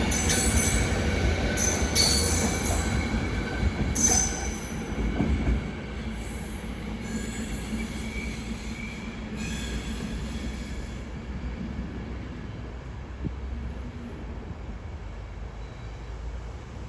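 A train moving along the platform, its wheels squealing against the rails with repeated high screeches over a low rumble. The rumble drops after about five seconds to a quieter steady run, and the squeals fade out by about two thirds of the way through.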